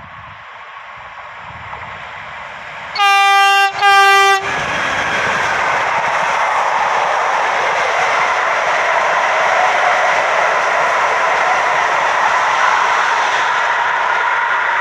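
Renfe class 253 (Bombardier Traxx) electric locomotive approaching and growing louder, then sounding its horn in two short blasts about three seconds in. The locomotive and its freight train then pass with loud, steady wheel-on-rail noise.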